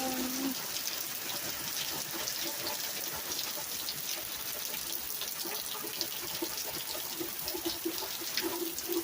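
Heavy rain pouring down: a steady hiss of rain with close drips and trickling runoff. In the second half a quick regular patter of dull drips comes in, about three or four a second.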